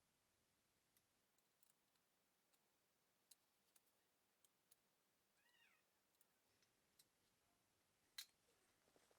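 Near silence with a few faint, sharp clicks, the loudest about eight seconds in, and one short, faint cat meow about five and a half seconds in.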